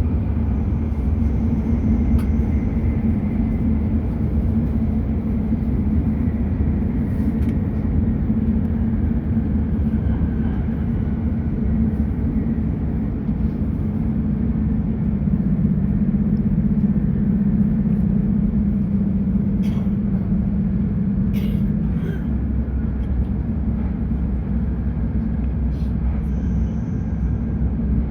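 Shinkansen train running at speed: a steady low rumble with a hum around 200 Hz and a few light clicks.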